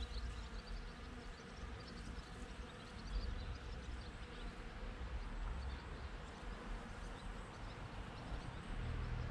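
Honeybees buzzing steadily around blossoms, over a low rumble, with many faint high chirps scattered throughout.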